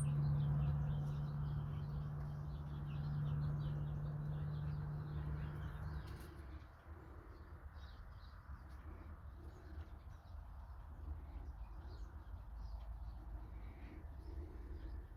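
Small wild birds chirping, many short high calls, over a steady low hum that stops about six seconds in, with a low rumble underneath.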